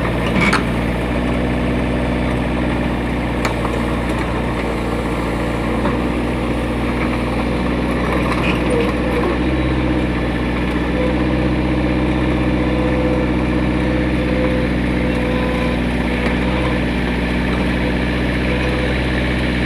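Yanmar engine running steadily at an even idle, with one brief knock just after the start.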